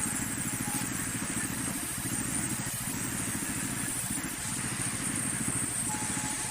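Sawmill engine running steadily with a rapid low throb.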